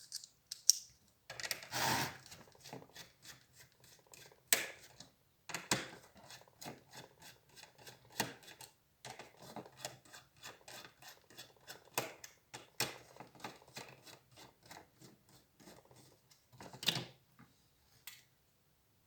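Irregular clicks, taps and light rattles of a laptop's plastic and metal parts being handled and worked on, with a few louder knocks about four and a half, twelve and seventeen seconds in.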